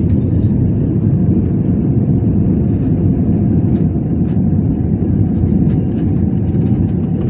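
Steady, loud low rumble of an aeroplane's engines and airflow, heard from inside the passenger cabin, with a few faint ticks.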